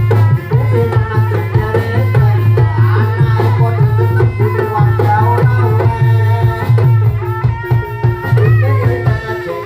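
Live Javanese folk ensemble music accompanying a dawangan performance: hand drums playing a busy rhythm under a wavering melody, with a steady low drone beneath.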